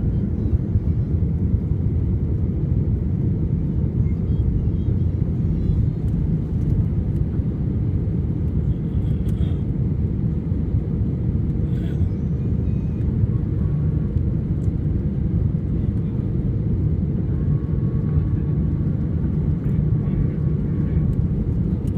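Steady low rumble of jet engines and airflow heard inside the cabin of an Airbus A320-family airliner, with a faint steady hum running through it.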